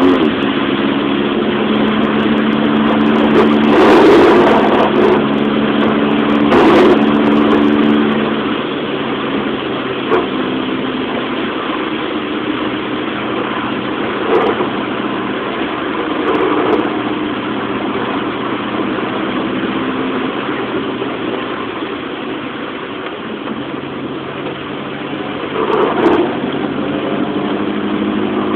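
Car engine running at steady revs, heard from inside the cabin at speed, over a constant hiss of rain and tyre spray on a wet track. The engine note shifts at about eight seconds in, and there are a few short knocks, the loudest about four, seven and twenty-six seconds in.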